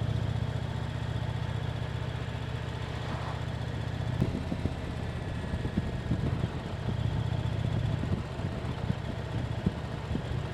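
Motorcycle engine running while riding, a steady low drone that eases off briefly about four seconds in and again near the end.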